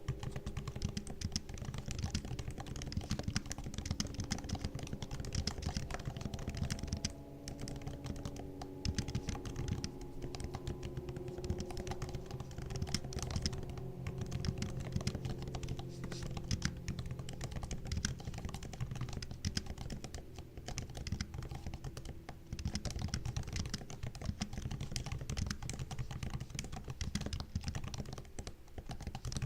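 Continuous typing on a MacBook laptop keyboard: rapid, soft key clicks and taps, with a few brief pauses.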